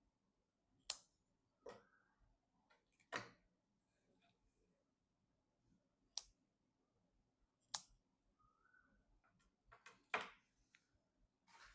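Sharp, separate clicks and taps, about six spread unevenly over the stretch, from hard plastic and metal computer parts being handled and fitted together during a PC assembly.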